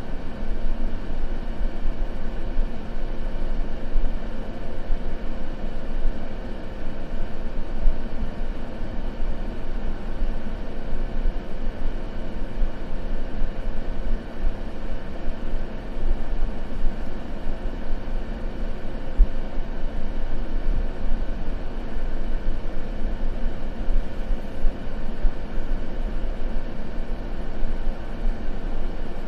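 Continuous white noise: a steady, unchanging rushing sound weighted toward the low end, with no crackles or breaks.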